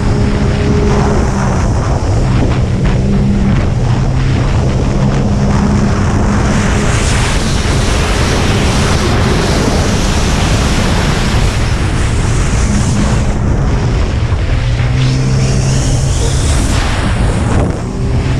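Racing jet ski engine running hard at a steady pitch, with rushing water spray and wind buffeting the microphone; the engine tone fades under the rush of water for several seconds in the middle and returns near the end.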